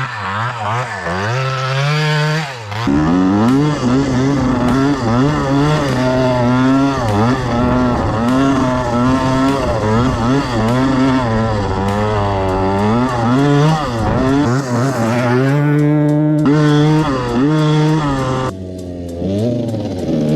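1979 Yamaha IT175 two-stroke dirt bike engine being ridden, revving up and down over and over so that its pitch rises and falls about once a second.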